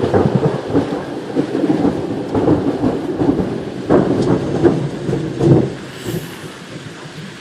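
Loud thunder rolling and rumbling, dying away about six seconds in, with steady rain falling.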